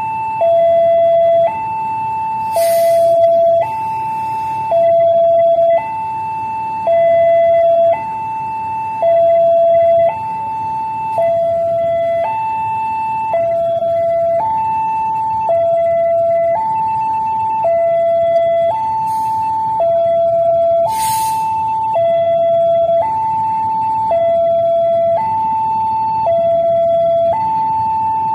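Railway level-crossing warning alarm sounding, an electronic two-tone high-low signal that switches pitch about every 0.7 seconds without a break, the warning that a train is approaching the crossing. A short hiss cuts across it twice.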